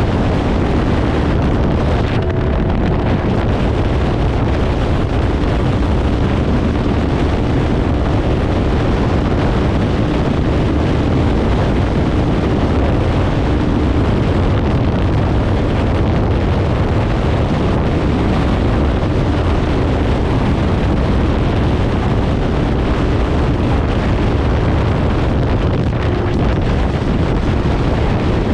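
Kawasaki Ninja 500's parallel-twin engine through a Leo Vince aftermarket exhaust, running at a steady pace on the move, with wind rushing over the microphone.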